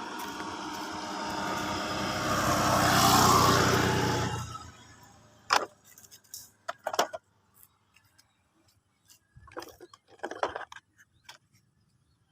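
A motor vehicle passing: engine and road noise swell to a peak about three seconds in, then fade out, followed by a few scattered clicks and knocks.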